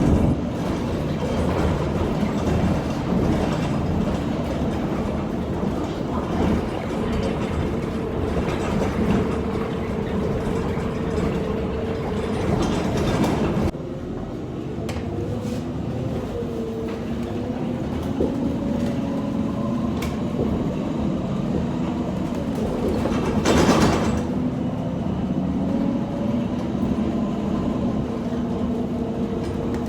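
Ride noise of a city transit vehicle in motion: a steady rumble with a motor whine that slowly rises in pitch in the second half. A short loud burst of noise comes about three-quarters of the way through.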